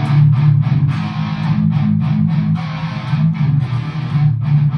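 Electric guitar played through a Line 6 Spider IV amp's rhythm channel with no pedals, lightly distorted and not very distortion-heavy. It plays a loud, low riff of chugged notes broken by several short stops.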